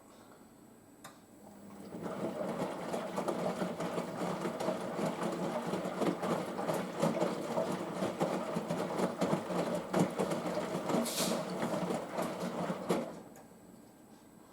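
Front-loading washing machine on its pre-wash, the drum turning and tumbling wet towels with sloshing water and soft knocks; it starts about two seconds in and stops shortly before the end, a pause in the wash action.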